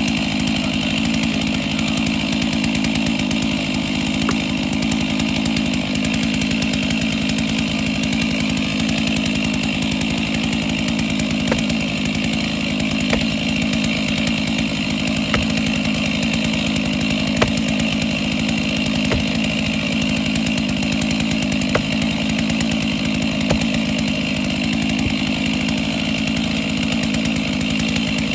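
Chainsaw running steadily at high speed, cutting wood with an even engine note that holds without letting up, with a few faint ticks over it.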